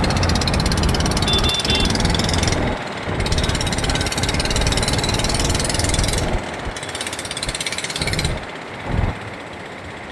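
Motorcycle engine running during a city ride, pulsing steadily, with wind rush. It eases off briefly twice and drops to a quieter run from about eight seconds in.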